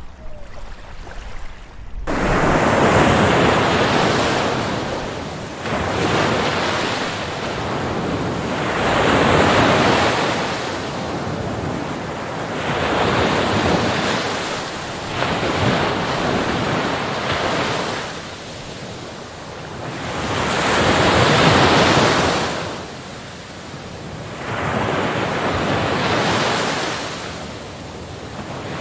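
Ocean surf on a beach: waves breaking and washing up the shore, swelling and fading every three to five seconds. The first two seconds are quieter, then the surf comes in suddenly.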